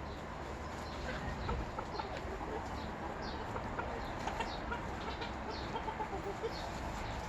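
A flock of chickens clucking off and on, with short high chirps scattered through, over a steady low rumble.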